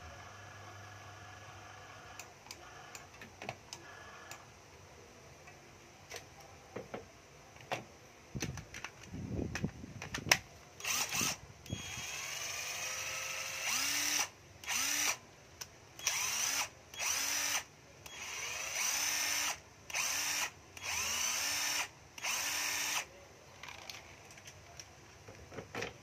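12V cordless drill/driver being trigger-tested: the motor spins up with a rising whine, runs for about a second and stops, over and over, about nine times in the second half. Before that there are handling clicks and knocks.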